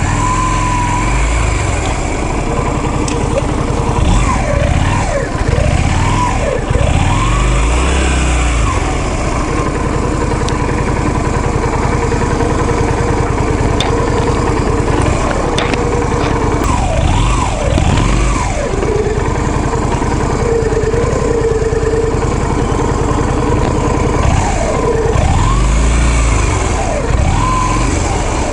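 Vehicle engine running under way, its pitch repeatedly rising and falling as it revs up and eases off, over a steady low rumble.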